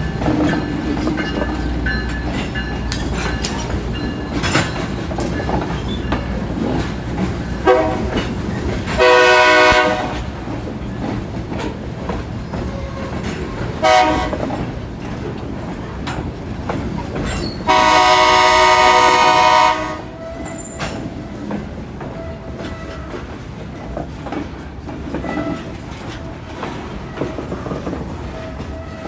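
Diesel freight locomotive sounding its air horn four times: a short toot, a blast of about a second, another short toot, and a longer blast of about two seconds, the loudest sound. Between the blasts, a steady rumble of the train with wheels clicking over the rail joints.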